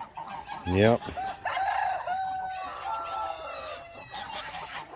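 A rooster crowing once, a long call of about three seconds, with other chickens clucking.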